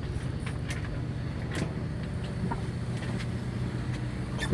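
Steady low engine hum of a fishing boat, with scattered light clicks and knocks of handling on deck and one sharper knock at the end.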